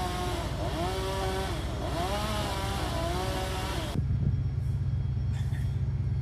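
A small engine revving up and down, its pitch rising and falling about once a second, over a steady low engine rumble. About four seconds in the revving cuts off suddenly, leaving the low rumble.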